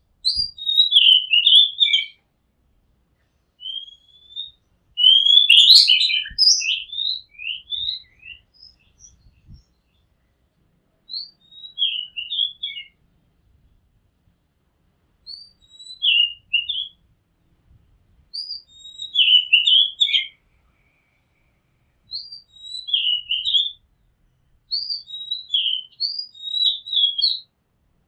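Oriental magpie-robin singing: repeated short phrases of quick, varied whistled notes, each a second or two long, with pauses of a second or more between them.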